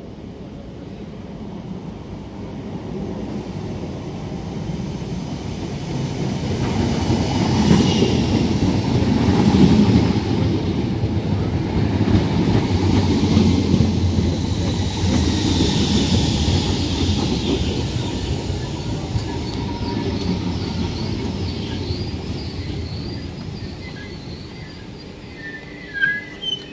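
Great Northern electric multiple unit running into the platform: a rumble of wheels on rail that grows louder as the train draws alongside, then slowly dies away as it brakes to a stop. High-pitched wheel and brake squeal comes in the later part, and two short sharp high sounds come just before the end.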